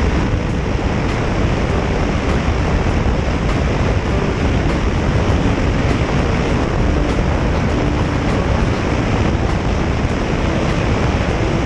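Motorcycle on the move: steady wind rush over the microphone, with engine and road noise beneath.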